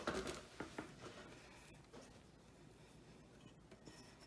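Faint scratching of a black Sharpie marker drawn along the edge of a painted plate, with a few light clicks in the first second.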